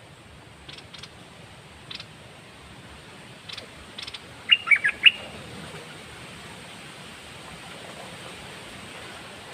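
A caged songbird giving a few faint short chirps, then a loud quick phrase of three or four notes about halfway through.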